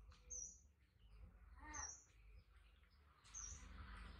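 Faint, short, high bird chirps repeating about every second and a half. A brief faint voice-like call comes near the middle.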